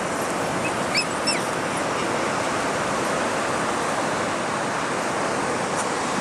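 Steady wash of ocean surf breaking on a beach, with two or three brief high chirps about a second in.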